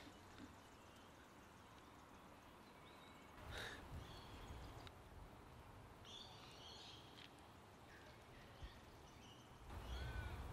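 Near silence: quiet woodland ambience with faint, scattered bird chirps and a brief rustle. A low rumble comes in near the end.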